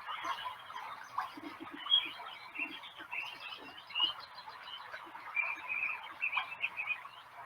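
A chorus of many short, high chirping animal calls over a faint hiss, from a nature ambience.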